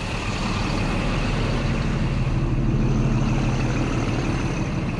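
Old Scania truck's diesel engine idling steadily, swelling slightly around the middle.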